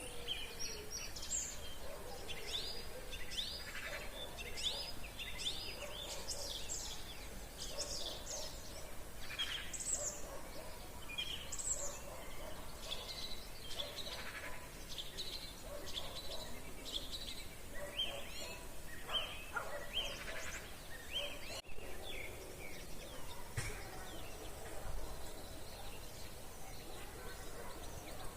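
Several songbirds singing at once in woodland: many overlapping high chirps and twittering phrases, over a steady low background rumble.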